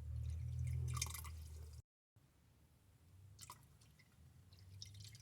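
Water being poured into a humidifier's plastic water tank, cutting off abruptly about two seconds in; afterwards quieter drips of water and light plastic knocks.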